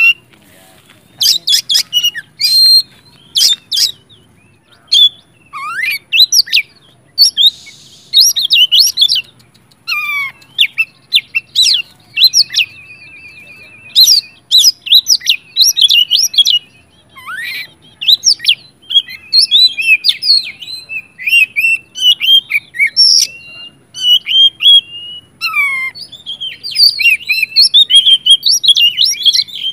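Oriental magpie-robin in full, vigorous song: loud, quick phrases of clear whistles, notes sweeping up and down, and a rattling trill about twelve seconds in.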